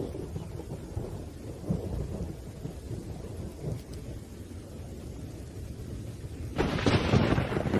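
Thunderstorm: low, rolling thunder rumbling under steady rain, with a sudden louder, sharper burst of thunder near the end.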